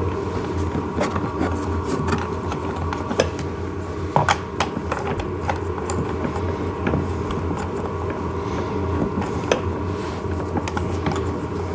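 Scattered light clicks and taps of a small wrench and plastic parts being handled while a ride-on toy's wheel nut is fitted, a few sharper knocks about three and four seconds in, over a steady hum.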